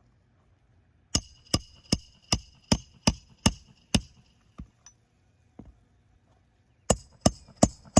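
Hand hammer blows on metal with a ringing note, about two and a half strikes a second: a run of eight, a short pause with a couple of light taps, then four more near the end.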